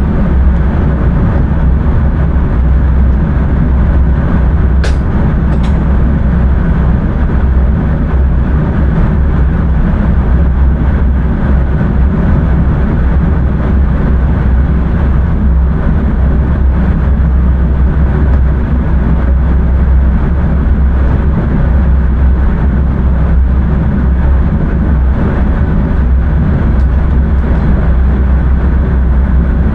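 Intercity train running, heard from inside the driver's cab: a steady, loud rumble of wheels and running gear, strongest in the deep lows. Two short, sharp ticks sound about five seconds in.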